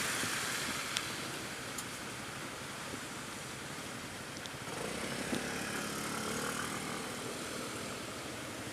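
Light to moderate rain hissing steadily, picked up by an action camera's built-in microphone, with traffic passing on a wet road. A tyre swish fades in the first couple of seconds, and a vehicle's engine passes about five to seven seconds in.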